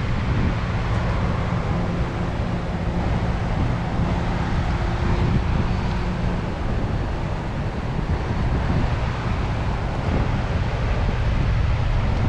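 Steady low rumble of a car on the move, with wind buffeting the microphone. For a few seconds a faint engine hum holds a steady pitch.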